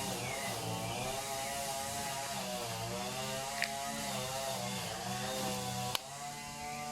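A small engine running steadily in the background, its pitch wavering slightly, with a sharp click shortly before the end.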